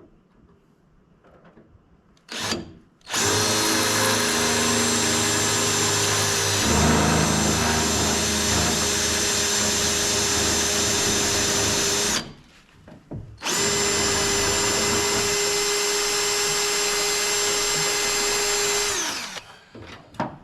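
Electric drill with a number 25 bit boring a hole through steel angle iron, a pilot hole that is to be tapped for a screw. Steady motor whine in two runs: the first about nine seconds long, with the bit grinding harder into the metal partway through, then after a pause of about a second a second run of about six seconds that winds down at the end.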